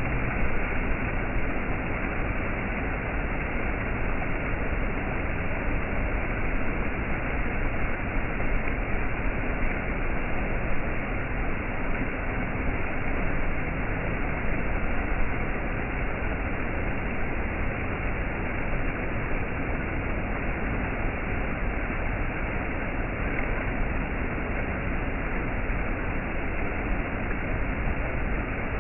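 Waterfall: water falling in a steady, unbroken rush, dull-toned with no high hiss.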